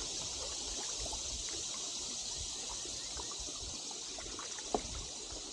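River water rippling and trickling past a canoe: a steady hiss with small scattered splashes and drips, and one light tap a little before the end.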